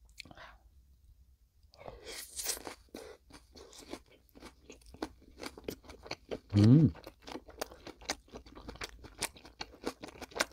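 Close-up chewing of a bite of mackerel sashimi wrapped in a slice of raw onion: crisp, rapid crunching and wet mouth clicks that start about two seconds in and go on steadily. About two-thirds through, a short rising 'mm' hum from the eater is the loudest sound.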